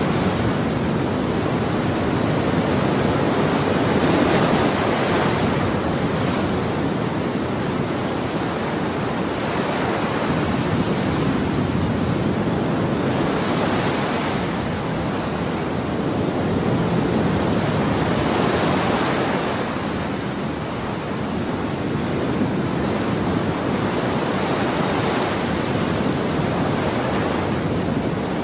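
Ocean waves breaking on a shore: a continuous rushing wash of surf that swells and eases every few seconds as each wave comes in.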